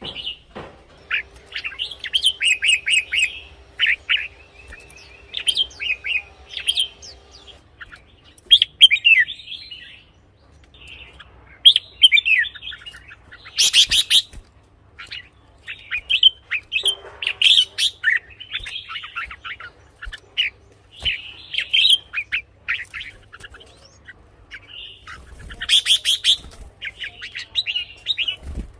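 Red-whiskered bulbul singing: short, quick bubbly whistled phrases repeated with brief pauses between them, with two louder, sharper notes about halfway through and near the end.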